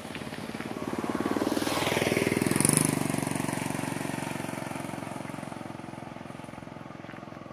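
A motor vehicle engine passing by. It grows louder to a peak about two and a half seconds in, drops in pitch as it goes past, then fades away.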